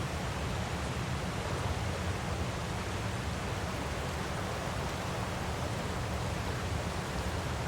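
Waterfall recording: a steady, even rush of falling water with no breaks or changes.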